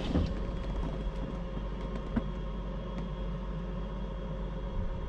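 Steady vehicle hum with a low rumble, broken by a few faint clicks.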